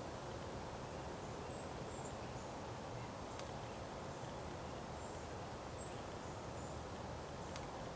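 Winter outdoor ambience: a steady low background rumble with a few faint, short, high-pitched chirps from small birds scattered through it.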